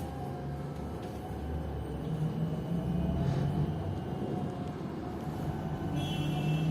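PKTS-6281.01 "Admiral" trolleybus under way, heard from inside the cabin: a steady low running rumble with a faint whine from its AC traction motor and IGBT inverter that drifts slowly in pitch. A higher whine joins near the end.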